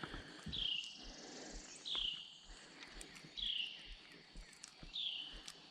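A songbird repeating a short, high, down-slurred whistle about every second and a half, with faint scattered knocks underneath.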